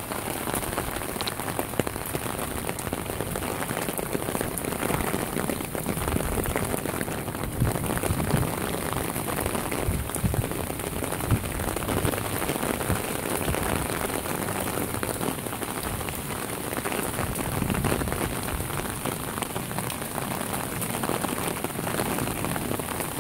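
Heavy rain falling steadily onto a waterlogged yard, a continuous even rush.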